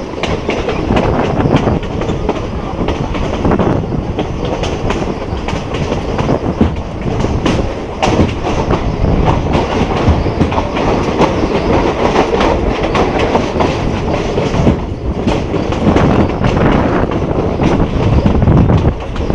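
Passenger train running along the track, heard from a carriage window: a steady rumble of wheels on rails with frequent sharp clicks of the wheels over rail joints.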